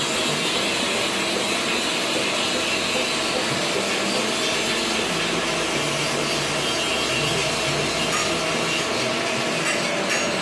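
Steady metalworking machine noise: a continuous hiss of cutting or abrasive work over a faint machine hum.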